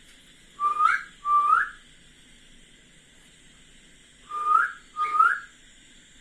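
Two pairs of short, clear whistled notes, each rising in pitch; the first pair comes about a second in and the second pair about four and a half seconds in.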